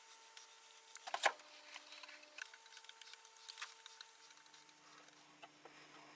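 Quiet hand work on the wooden cabinet while felt is glued to its top: light rubbing and scraping, with one sharp knock about a second in.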